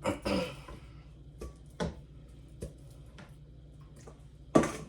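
Kitchen prep handling sounds: a few irregular knocks and clicks, with the loudest knock near the end, over a low steady room hum.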